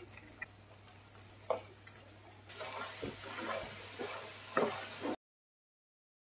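Potato fries sizzling in hot oil in a non-stick pan. About two and a half seconds in the sizzle grows louder as a metal spatula stirs them, knocking and scraping against the pan a few times. The sound cuts to silence just after five seconds.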